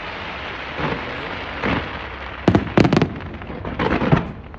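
Fireworks display: shells bursting in an irregular run of bangs, three loud ones in quick succession about two and a half seconds in and another cluster near the end, over a continuous background rumble.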